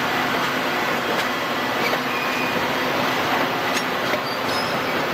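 Metra bilevel gallery commuter cars rolling slowly past: a steady rumble of steel wheels on rail, with a few faint clicks over rail joints and a brief thin wheel squeal about halfway through.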